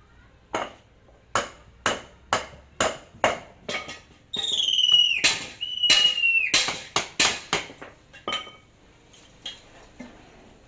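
Hammer blows on metal, about two a second, broken in the middle by two high squeals that slide down in pitch, then a few more blows that taper off.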